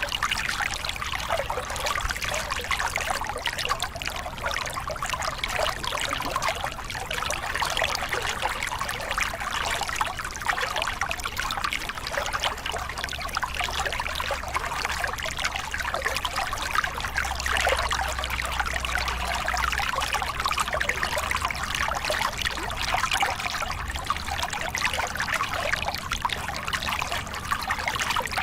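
A small river cascade: water splashing and trickling over rocks, steady throughout.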